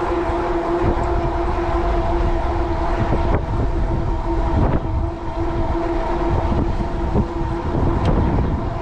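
Electric fat-tire bike riding at steady speed: a constant whine from the bike over heavy low wind rumble on the microphone.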